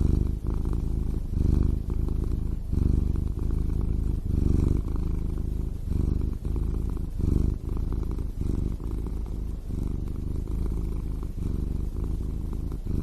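Domestic cat purring close up: a steady low rumble that swells and eases with each breath, about once a second.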